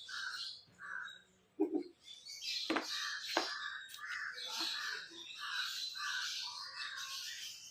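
Birds calling in a run of short, repeated calls, two or three a second, with a couple of sharp knocks about three seconds in.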